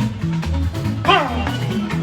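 Live fuji band music with a steady bass-heavy beat and a brief sung or shouted vocal glide about a second in.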